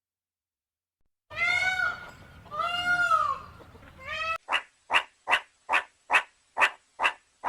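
Animal calls: two drawn-out cries that rise and fall in pitch and a short third one, then an abrupt switch to an even run of short, sharp calls about two a second.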